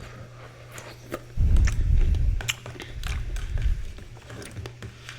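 Close-miked chewing of a mouthful of Nature's Cereal, with wet crisp clicks and low thuds of the jaw working.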